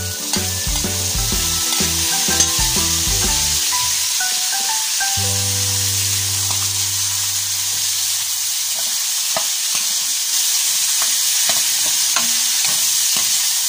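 String beans sizzling in hot oil and soy sauce in an aluminium wok as they go in on top of browned pork, stirred with a metal spatula with scattered scrapes and clicks against the pan. A light background tune plays through roughly the first eight seconds, then stops.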